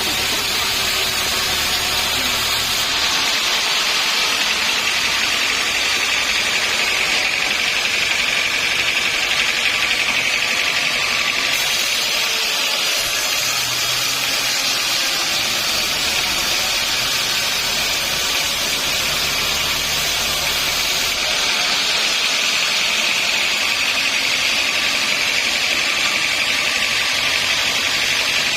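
Sawmill saw running through a log: steady machine noise with a high, even whine.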